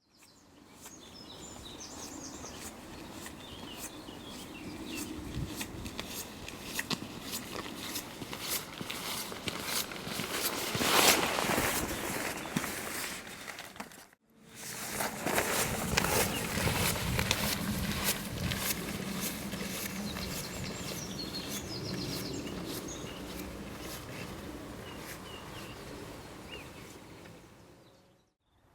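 Outdoor countryside ambience: birds chirping over a steady background noise, with footsteps and light rustling. It swells louder about eleven seconds in and cuts out briefly about halfway.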